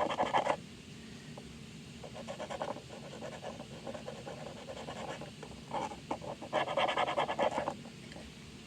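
Thin marker scribbling on a plastic toy fridge in quick back-and-forth strokes, in short runs with the longest and loudest near the end.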